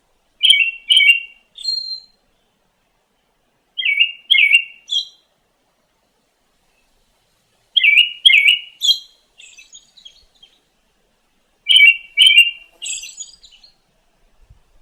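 A songbird singing the same short phrase four times, about four seconds apart: two quick downslurred notes followed by a higher closing note. Fainter twittering follows the last two phrases.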